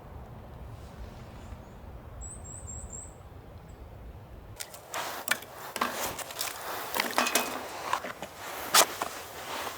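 A steady low rumble with a bird's four quick high chirps about 2 s in. Then, from about halfway, the irregular sharp crackles and pops of a burning wood campfire, one pop standing out near the end.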